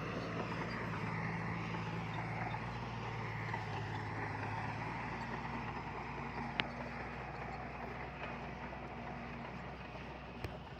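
Heavy earthmoving machine's diesel engine running steadily with a low hum, slowly growing quieter, with a single sharp tick about two-thirds of the way through.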